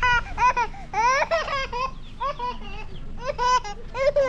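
A small child laughing and babbling in short, high-pitched bursts, several in quick succession.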